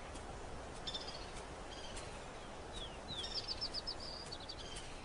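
Small birds chirping over faint steady outdoor ambience: short high calls about a second in, two quick down-sliding notes near the middle, then a fast run of chirps.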